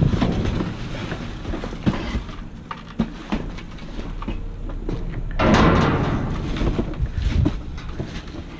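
Cardboard box being handled and opened: scattered knocks and thumps, with a louder stretch of scraping and rustling about five and a half seconds in, over a steady low hum.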